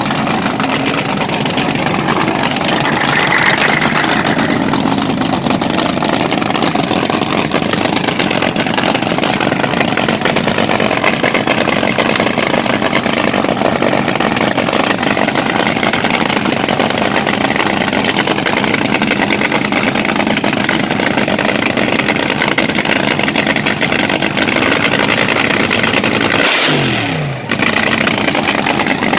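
Hot rod engines running loudly and steadily with some revving. There is a short dip near the end.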